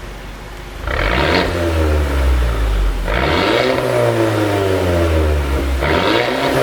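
Mercedes-Benz CLA250's turbocharged 2.0-litre four-cylinder engine, fitted with a pop-and-crackle exhaust tune, idling and then blipped three times, the revs falling away after each blip.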